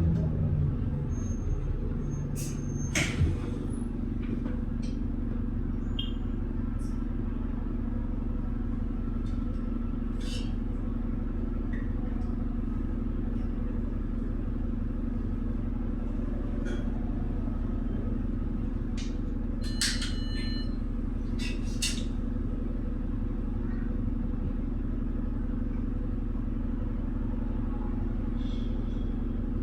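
Steady engine hum of a double-deck bus heard from inside the cabin, holding an even pitch throughout, with a few short clicks and rattles, the clearest ones about three seconds in and again around twenty seconds.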